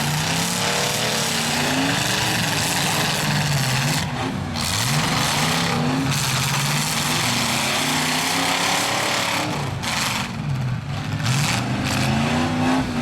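Several stock pickup truck engines in a demolition derby revving, their pitch rising and falling over and over, over a steady wash of mechanical noise.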